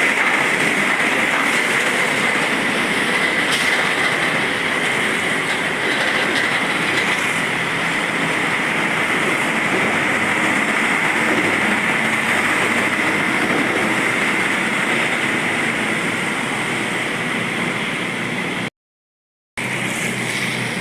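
Steady road traffic noise of heavy vehicles rolling past, a continuous rushing hiss with a steady high whine in it. The sound cuts out completely for about a second near the end.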